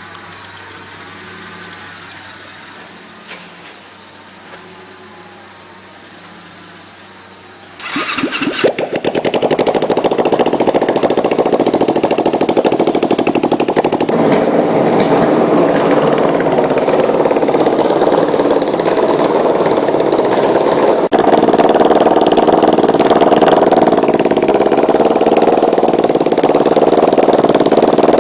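Suzuki GS500's air-cooled parallel-twin engine, running with no muffler. After about eight seconds of low sound it starts suddenly and runs loud and steady, getting a little louder about two-thirds of the way through.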